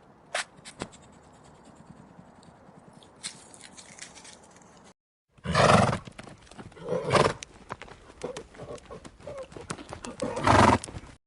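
Animal calls: a quiet stretch with scattered clicks, then, after a short break, three loud calls from a large animal, the last near the end.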